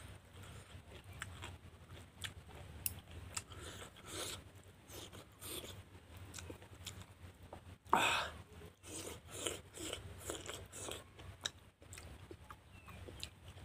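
Close-miked chewing and biting as a man eats a meal by hand: short, irregular wet crunches and mouth clicks, with one much louder sound about eight seconds in.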